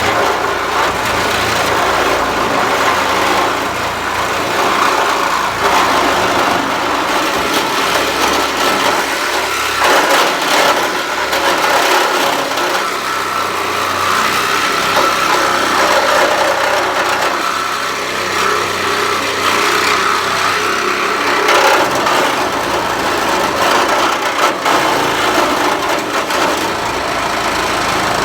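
A power tool cutting through the sheet-metal bed of a 2009 Ford Ranger pickup. It runs loud and without a break, with a steady high-pitched tone over a harsh noise.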